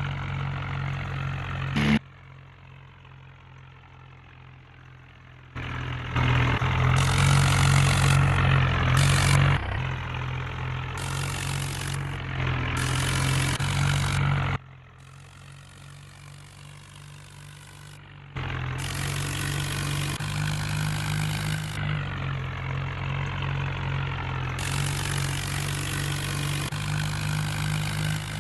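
New Holland tractor's diesel engine running at a steady pitch. The sound drops away abruptly twice for a few seconds and comes back, and it is loudest for a few seconds about a quarter of the way in.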